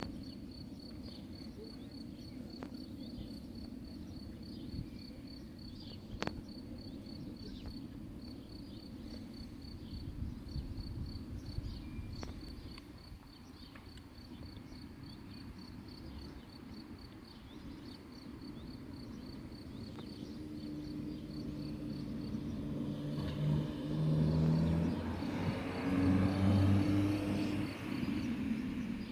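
A cricket chirping in a fast, even pulse on one high note, over a low rumble of distant traffic. About twenty seconds in, a motor vehicle's engine approaches and grows louder, then fades near the end.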